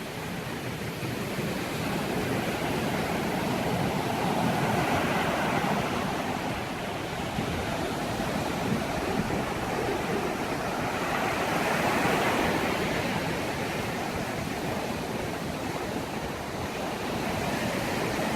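Waves of the sea surf washing onto the beach, a steady rush that swells up twice.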